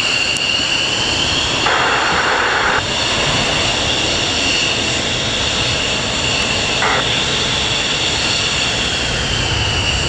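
F-15 jet engines whining steadily at taxi power over a low rumble, the whine rising slightly in pitch midway and easing back near the end. A short burst of hiss cuts in about two seconds in and again briefly near seven seconds.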